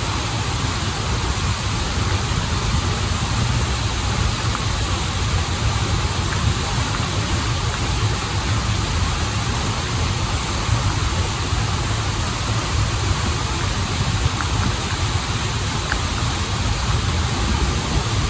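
Waterfall and stream water rushing steadily, a constant roar with a deep low rumble under a bright hiss.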